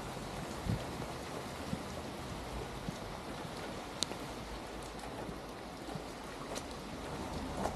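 Steady rain falling on a wet street, a constant hiss with scattered sharp drop ticks, one louder tick about halfway through.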